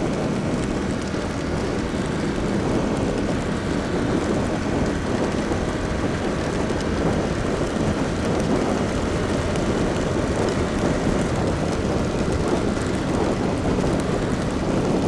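Ducati XDiavel motorcycle riding at a steady speed in heavy rain: a steady rush of wind and rain over the engine, with no change in engine speed.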